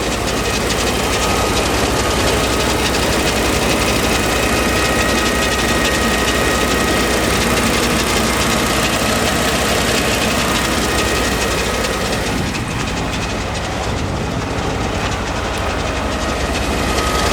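Ford 6.8L V10 gasoline engine, 2013, idling steadily, with a faint steady high whine over the running sound.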